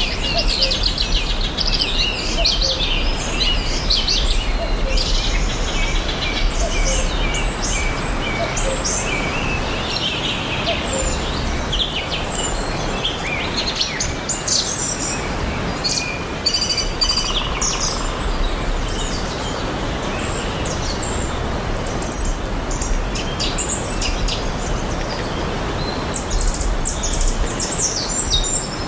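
Several songbirds chirping and trilling over one another throughout, over a steady even hiss of outdoor ambience.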